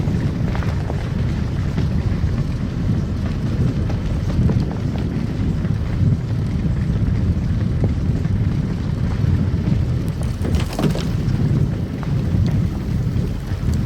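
Car driving on a snow-covered road: a steady low rumble of engine and tyres, with scattered faint ticks and a brief, sharper noise about ten and a half seconds in.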